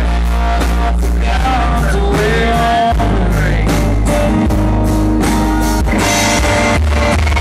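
Live country band playing loudly: a male lead vocal sings over electric guitars, bass and a steady drum beat.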